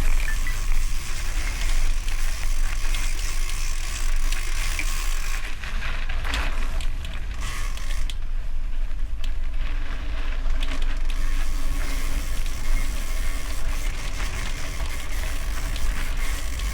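A gravel bike rolling over gravel: tyres crunching and the bike rattling and creaking, with heavy wind rumble on the microphone.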